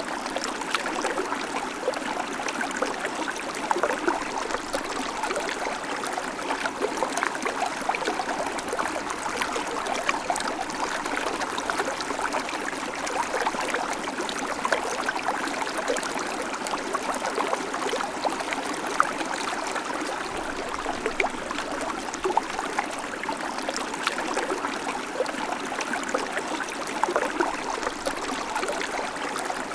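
Babbling creek: small stream water running and trickling over stones, a steady bubbling flow with many small splashes and gurgles.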